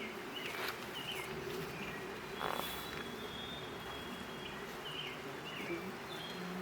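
Mosquitoes buzzing close by, a steady hum, with a few short high chirps sounding on and off.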